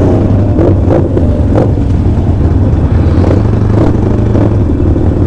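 Motorcycle engine running steadily while riding: a loud, low rumble with a few brief thumps.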